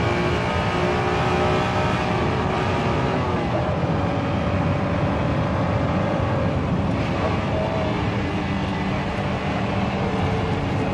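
Honda NSX Type-R's V6 engine running hard, heard from inside the cabin on track, with road and wind noise. Its loudness stays steady while the pitch shifts with throttle and gears, dipping about three and a half seconds in.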